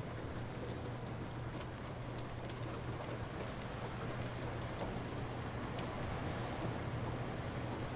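Light rain falling steadily, with scattered drips. A steady low hum sits underneath.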